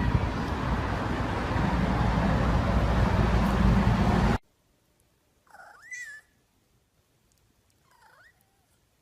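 A loud, steady rushing noise that cuts off suddenly about four seconds in. It is followed by a cat meowing twice, the second meow shorter and fainter.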